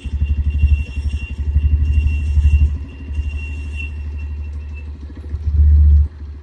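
Bajaj Pulsar 150's single-cylinder engine running with a fast, even exhaust beat, briefly louder near the end. A faint steady high-pitched tone sounds alongside it and fades out about two-thirds of the way through.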